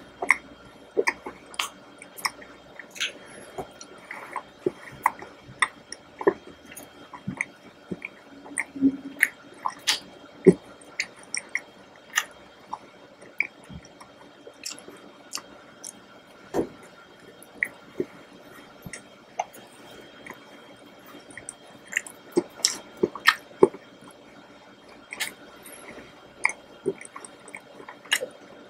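Close-miked chewing of a chocolate cake decoration, with many short, wet mouth clicks and smacks at an irregular pace, busiest near the end.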